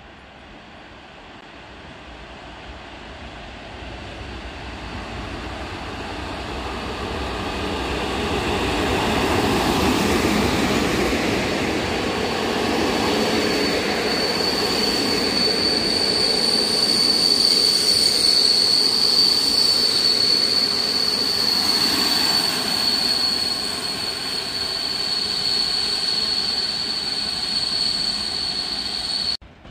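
EP07 electric locomotive and its passenger coaches running into the station. The rumble of wheels on the rails grows louder as the train approaches. From about halfway through, a steady high-pitched squeal comes from the wheels as the train brakes to a stop.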